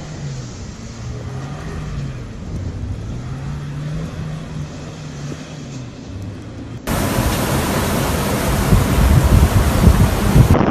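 Blizzard wind blowing, with a low hum that slowly rises and falls beneath it. About seven seconds in, it cuts abruptly to louder, gusty wind buffeting the microphone.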